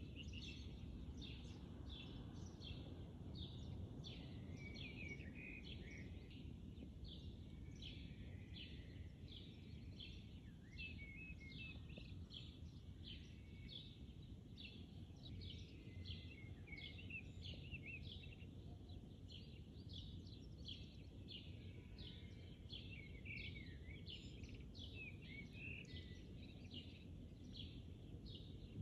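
Faint bird chirping: short high calls repeating about twice a second, over a low steady rumble.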